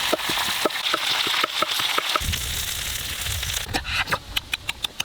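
Food frying in hot oil, a sizzling hiss with sharp popping crackles, which changes abruptly about two seconds in to a low rumble with a quick run of sharp clicks near the end.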